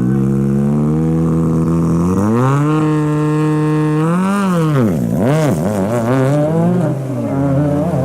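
Ford Fiesta RS WRC's turbocharged four-cylinder engine held at steady revs, then raised and held higher. About halfway through it is blipped sharply up and down several times.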